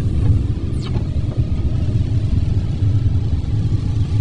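Steady low rumble of a car's engine and tyres heard from inside the moving vehicle, with a brief falling chirp about a second in.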